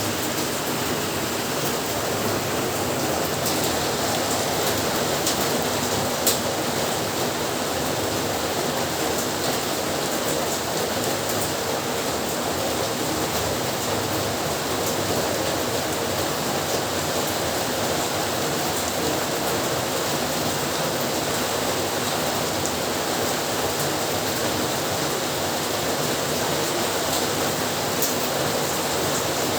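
Heavy rain falling steadily, a dense even hiss with a few sharper drop ticks, the loudest about six seconds in.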